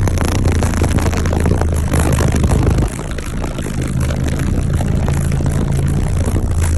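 A car audio system's subwoofers playing a loud, steady deep bass tone, with the air they push rushing over the microphone. About three seconds in, the bass drops a little and a second, higher bass note joins it.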